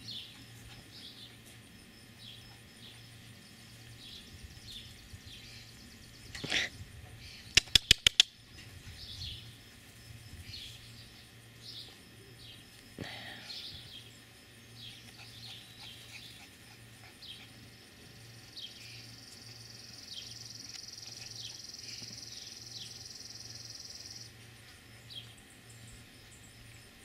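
Songbirds chirping outdoors, many short, quick falling chirps all through, with a steady high buzz for about six seconds in the second half. Four sharp loud clicks come in quick succession about eight seconds in.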